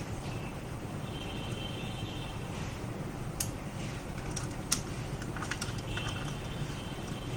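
A few sharp clicks and taps of small parts and tools being handled during laptop reassembly, over a steady low background hum.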